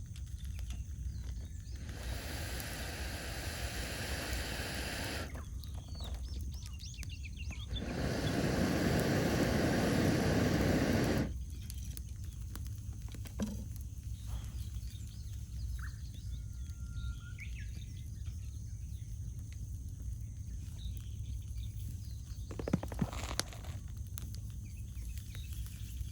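Campfire crackling with scattered sharp pops and a few short bird calls. Twice a rushing noise of about three seconds starts and stops abruptly, the second one louder and deeper.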